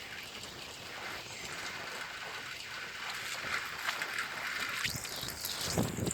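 Floodwater running with a steady rushing hiss. Near the end, wind buffets the microphone in rough low rumbles.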